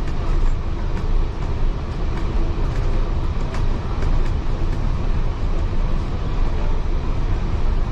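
Heritage railway carriage running along the line: a steady, loud low rumble of the wheels and bogies on the track, with light ticks and rattles about once a second.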